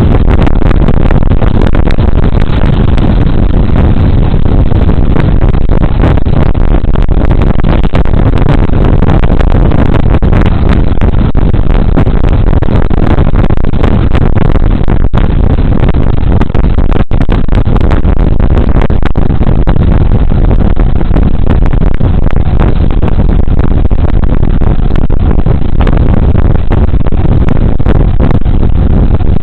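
Riding noise from a Suzuki Burgman Street 125 scooter picked up on a body-worn camera's microphone: a steady, very loud rush of wind and road noise with the scooter's engine under it.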